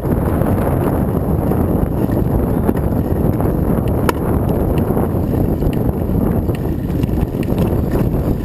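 Wind buffeting the microphone of a moving rider, a steady rushing rumble, with a few light clicks or rattles, one about halfway through.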